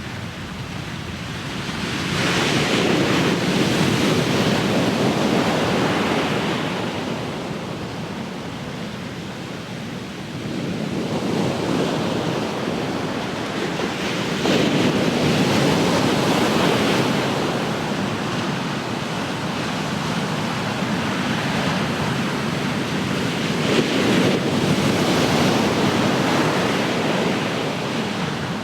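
Ocean waves breaking and washing on the shore, the surf swelling and ebbing in slow surges every several seconds, with some wind on the microphone.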